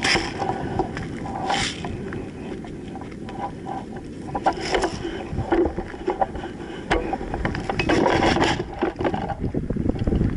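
Low rumbling wind noise on the microphone, with rustling, scraping and scattered clicks.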